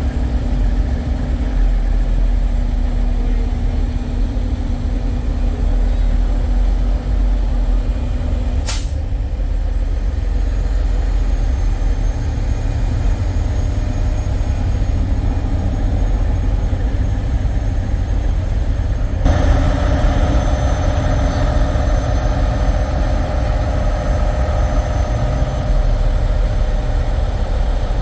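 Diesel semi-truck engines idling with a steady low rumble. A single sharp hiss of air is heard about nine seconds in. Past the middle the sound changes abruptly and a steadier, higher hum joins the rumble.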